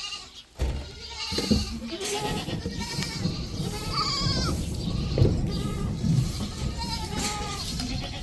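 A herd of goats bleating, many overlapping calls one after another. From about half a second in, a loud low rumbling noise with a few knocks runs under the calls.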